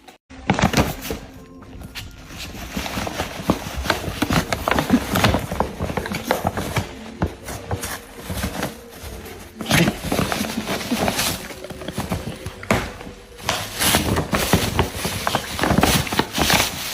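A French bulldog rummaging in a gift bag, crinkling and tearing the paper and tissue paper in quick, irregular rustles and rips.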